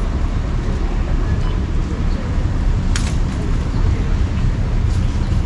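Steady low rumble of outdoor street noise, with a single sharp click about three seconds in.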